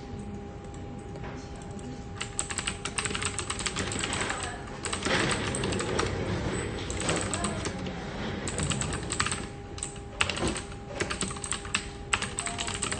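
Computer keyboard typing: a rapid, uneven run of key clicks that starts about two seconds in, over a steady background hum.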